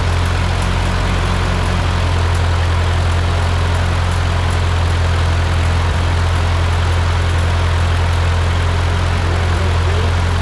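Freshly rebuilt Ford 8N tractor's four-cylinder flathead engine idling steadily.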